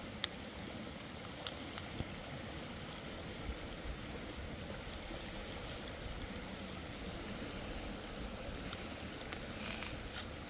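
Steady rushing of a mountain river, with a sharp click shortly after the start and a few faint clicks later.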